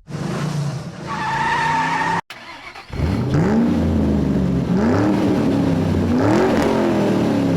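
A car's tyres squealing. After a brief cut, an engine revs again and again, its pitch climbing and falling about every second and a half.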